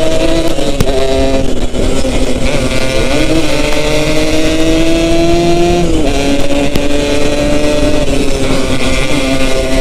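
Yamaha RX-King two-stroke single-cylinder motorcycle engine running under way, its pitch climbing slowly for a few seconds, then dropping about six seconds in and holding steady.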